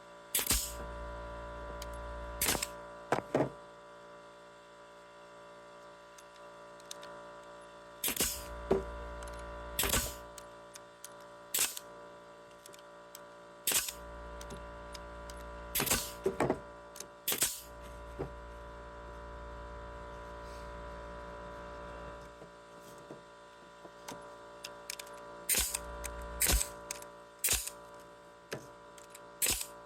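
Irregular sharp clicks and knocks, some in quick pairs or clusters, over a steady electrical hum.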